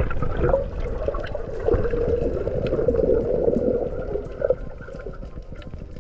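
Water gurgling and bubbling, with scattered small clicks, easing off slightly after about four seconds.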